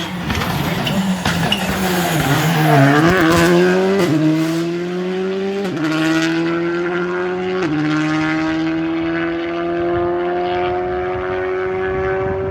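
Rally car engine coming off the throttle, pitch falling, then accelerating hard out of the slow part. It upshifts three times, about four, five and a half and seven and a half seconds in, and after the last change the revs climb steadily in a long pull.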